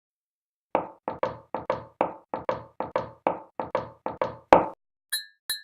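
A quick run of about fifteen knocks, many in pairs, ending in one louder, sharper knock, then two short, high ringing pings.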